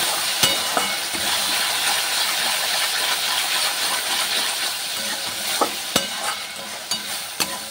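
Mushroom curry masala sizzling in oil in a metal pan as it is fried down and stirred with a spatula. Several sharp clicks of the spatula against the pan come twice near the start and four more times in the last couple of seconds.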